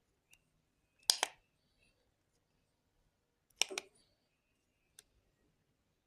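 Sharp double clicks, a pair about a second in and another about two and a half seconds later, with a faint single tick between.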